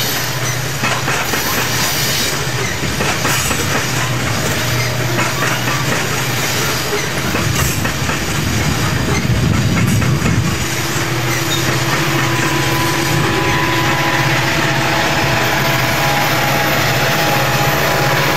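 Loaded coal hopper cars rolling past close by: a steady rumble of steel wheels on rail with clacking over the rail joints and some wheel squeal, a few steady squealing tones coming in about two-thirds through.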